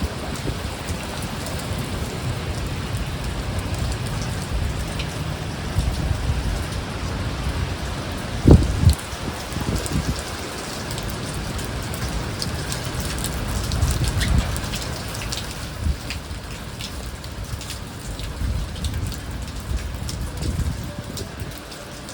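Heavy rain falling steadily, with a brief loud low thud about eight seconds in.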